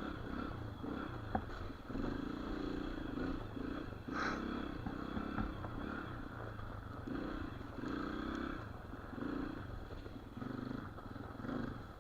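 Dirt bike engine running at low speed, its sound swelling and easing about once a second with the throttle.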